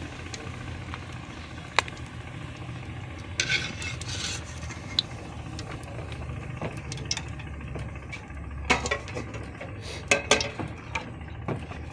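Chicken balls frying in ghee in a kadhai: a sizzle with a louder burst about three and a half seconds in, over a steady low hum, and a spoon knocking and scraping against the pan as the balls are turned, with a cluster of knocks near the end.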